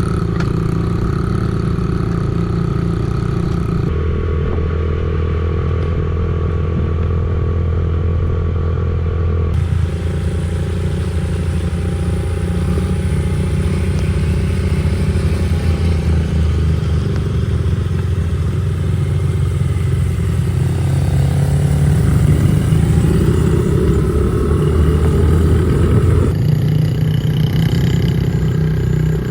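Small 50cc dirt bike engines running and revving steadily, with the engine note changing abruptly several times.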